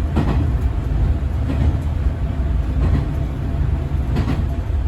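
Diesel railcar running along the line, heard from inside the cab: a steady low rumble with a few short knocks from the wheels over the track, about every second and a half.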